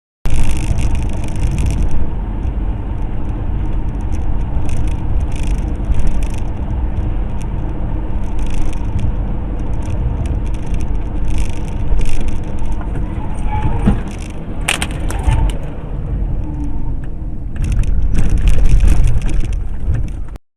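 Car driving on the road, heard from a dashboard camera: a steady low road and wind rumble with recurring hiss, and one sharp knock about fifteen seconds in.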